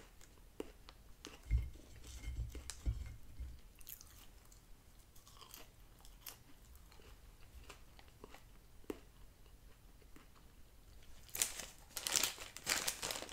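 Close-miked chewing of fast food with small mouth clicks and a few low bumps early on. Near the end comes a run of crinkling from a clear plastic bag being handled.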